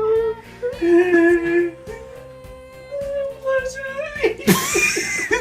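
A voice humming long, wavering held notes over background music, ending in a loud, breathy vocal sound with sliding pitch near the end.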